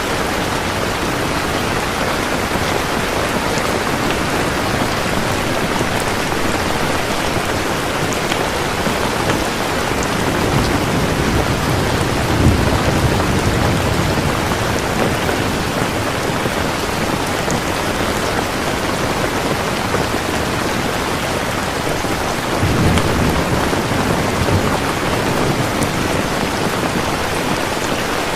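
Steady heavy rain, with low rolls of thunder swelling in about twelve seconds in and again about ten seconds later.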